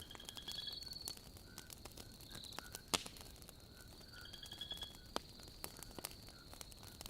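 Logs in a wood fire crackling with scattered sharp pops, the loudest about three seconds in. Behind them a night chorus keeps up a steady high trill, with short trills repeating every second or so.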